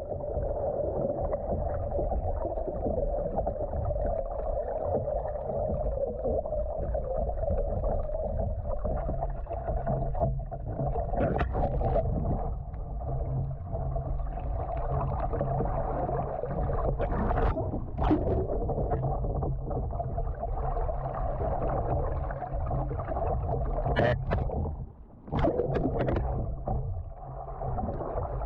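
Muffled water sloshing and gurgling around a swamping homemade kayak as it takes on water and goes over, with a few sharp knocks and splashes.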